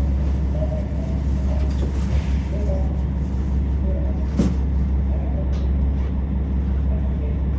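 KiHa 47 diesel railcar's engine idling with a steady low rumble, heard from inside the passenger car once the train has stopped. A single short click or knock comes about four and a half seconds in.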